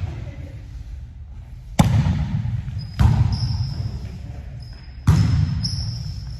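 A volleyball being struck three times in a rally, sharp slaps about a second and two seconds apart, each booming in a large gym hall. Thin, high squeaks run through the second half.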